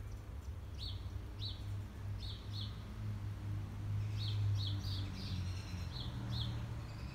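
Small birds chirping: short, high, falling chirps repeated at irregular intervals, several in quick succession around four to five seconds in, over a low steady hum.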